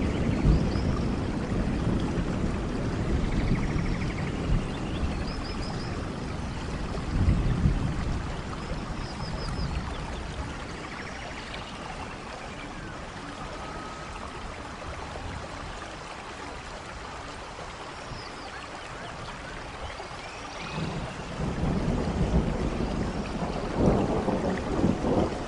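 Steady rainfall, with a low rumble that swells near the start, around seven seconds in, and again over the last few seconds, and faint high chirps scattered throughout.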